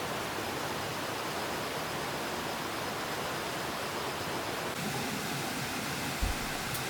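Steady rushing noise with no pitch or rhythm. Its character shifts slightly about five seconds in, and a single short low thump comes near the end.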